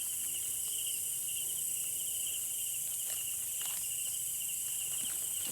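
Night chorus of crickets and other insects: a steady, rapidly pulsing trill with a high, shrill hiss above it.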